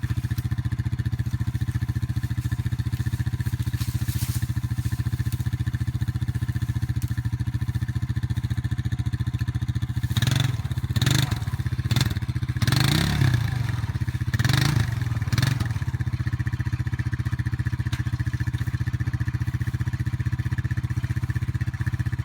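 ATV engine idling steadily, with several short, louder bursts of throttle about halfway through.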